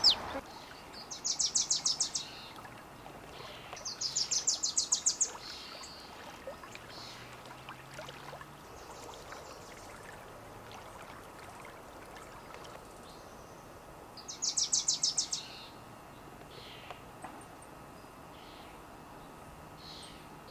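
A songbird singing a fast, high, even trill three times, each about a second long, over faint scattered bird calls and a low background hiss.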